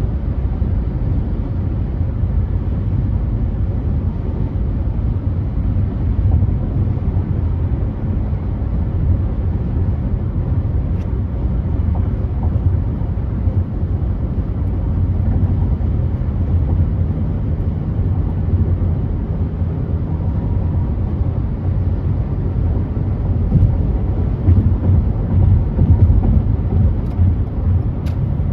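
Steady low rumble of a car driving, with road and tyre noise heard from inside the cabin.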